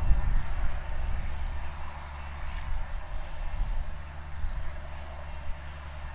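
Case IH Magnum 305 tractor's diesel engine running steadily under load while pulling a planter, a low drone that grows fainter over the first couple of seconds and then holds steady.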